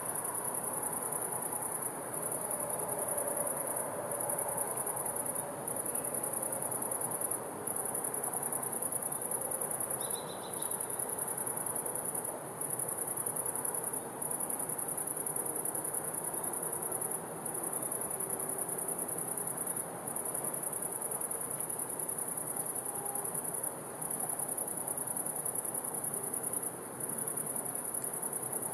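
Crickets trilling in a very high, continuous buzz, broken by short pauses every second or two, over a faint low background hush. A single brief chirp sounds about ten seconds in.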